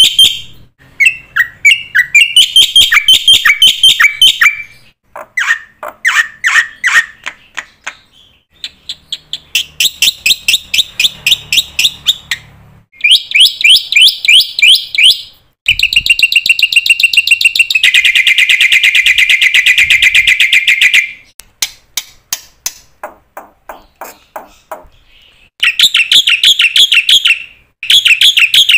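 A bird singing in phrases of rapid, repeated high chirps and fast trills, with short pauses between phrases.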